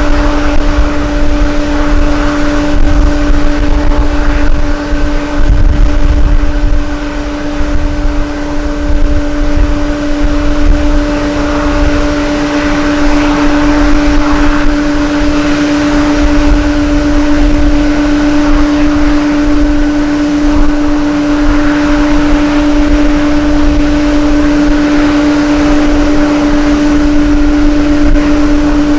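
Gusty strong wind buffeting the microphone, a low uneven rumble, over a steady mechanical drone that holds one pitch throughout.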